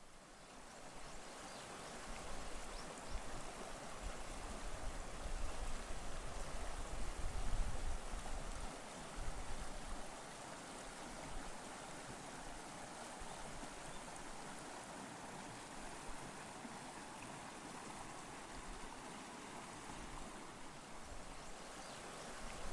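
Mountain stream flowing steadily, an even wash of water, with a low rumble swelling for a few seconds midway.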